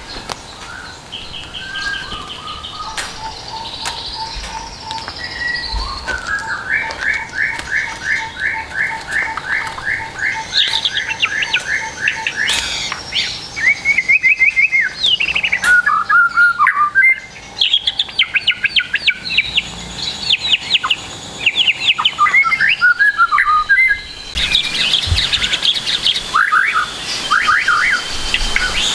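White-rumped shama singing a varied song packed with mimicked phrases of other birds: fast runs of repeated notes, trills and chatters following one after another.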